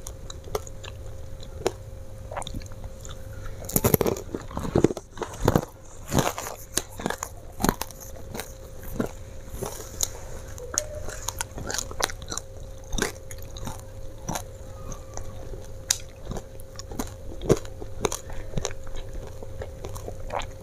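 Close-miked open-mouthed chewing and crunching of crispy fried potato-coated snack, with a dense run of sharp crunches in the first third and scattered wetter chews after, over a faint steady hum.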